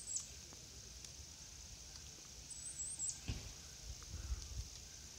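A small bird's high, thin call, a short wavering squeak ending in a quick drop, repeated about every three seconds. A few faint low bumps come in the second half.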